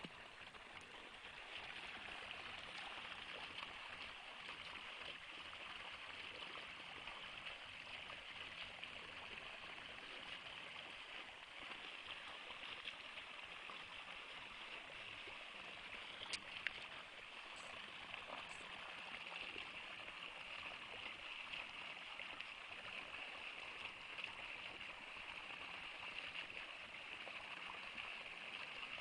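Steady rushing of a flowing stream, with a few faint clicks about two-thirds of the way through.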